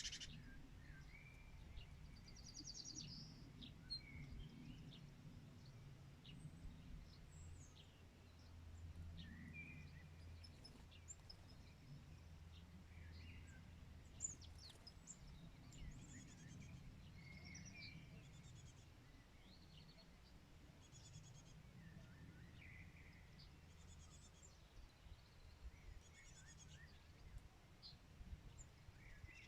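Faint outdoor birdsong: scattered chirps and short trills from several birds, over a low steady rumble, with a sharp click at the start.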